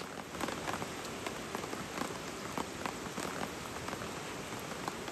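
Rain falling on a tarp: a steady hiss with many scattered drops ticking separately.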